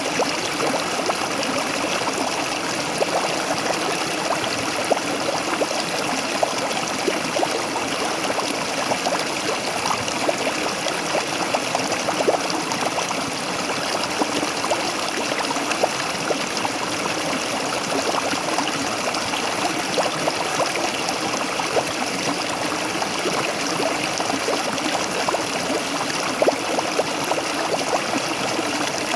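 Waterfall: water splashing and babbling in a steady, even rush, flecked with many small splashes.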